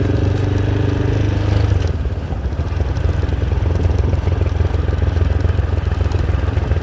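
Motorcycle engine running at low riding speed, heard from on the bike, its higher engine tones falling away about two seconds in while the low hum carries on.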